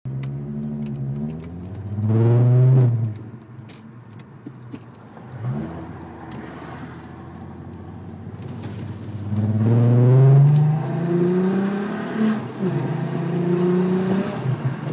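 VR6 engine's exhaust under hard acceleration. A short rev rises and falls away about two seconds in, and a brief blip follows a few seconds later. Then comes a longer pull rising in pitch, a dip at a gear change, and a second rising pull near the end.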